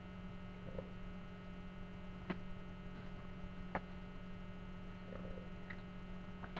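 Steady electrical mains hum in the recording, with a few light clicks and taps from trading cards being handled; two sharper clicks stand out in the middle.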